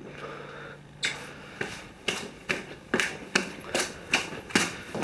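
Footsteps at a walking pace, sharp short steps about two to three a second, starting about a second in.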